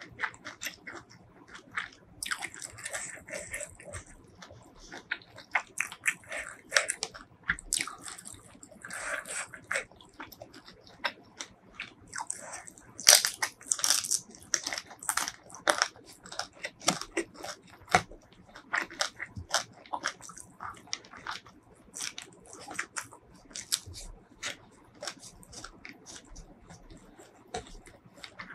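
Close-miked chewing of a mouthful of rice and spicy fried shrimp eaten by hand: many short, irregular mouth clicks and crunches, loudest about halfway through.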